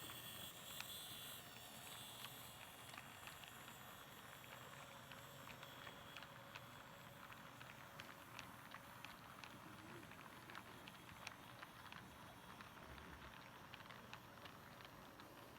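Near silence: a faint steady hiss with scattered faint clicks.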